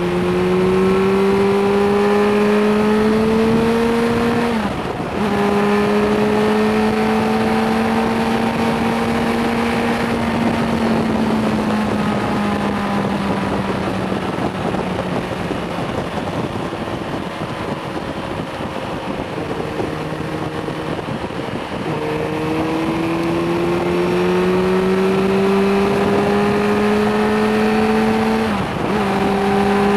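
Suzuki GSR 600 inline-four engine, restricted to 25 kW, heard from the rider's seat over a steady rush of wind. It pulls up through the revs and shifts up about five seconds in, holds and slowly falls off through the middle, then pulls up again and shifts once more near the end.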